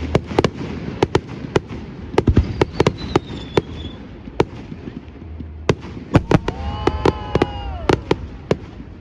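Fireworks display: a rapid, irregular run of sharp bangs from bursting aerial fireworks over a low rumble, with a drawn-out pitched tone about seven seconds in.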